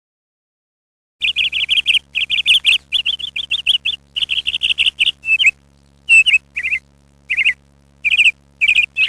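Small birds chirping in quick, high runs of chirps with short pauses between them, starting about a second in.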